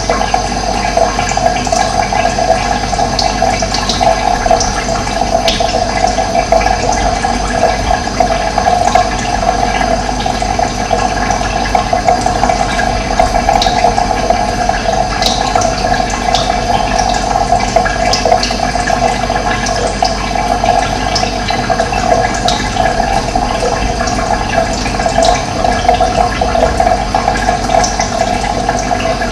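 Running water rushing steadily, with scattered short bird chirps above it.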